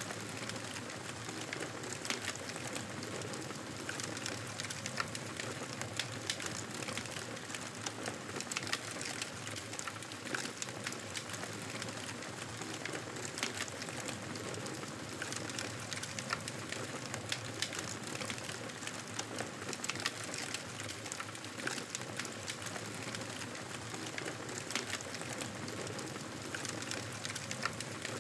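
Campfire burning: a steady hiss of flames with frequent sharp crackles and pops of burning wood scattered irregularly throughout.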